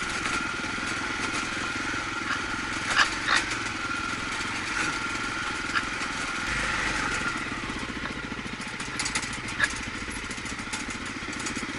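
Honda XR250's single-cylinder four-stroke engine running steadily while riding, with a few short clicks or knocks.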